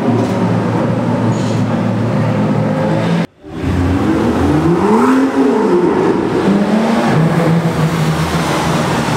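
Sports car engines revving and accelerating inside a road tunnel. A sudden cut a little over three seconds in breaks the sound, after which an engine's pitch rises and falls as it revs, then settles to a steady pull.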